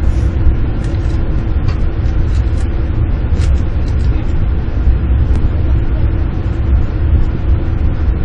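Cabin noise inside an E4 series double-deck Shinkansen rolling slowly through a station: a steady low rumble with a few faint light clicks.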